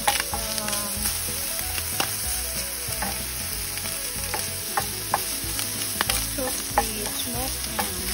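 Diced ham and Spam sizzling in a nonstick frying pan with a steady frying hiss, while a slotted wooden spatula stirs them and makes irregular sharp clicks against the pan.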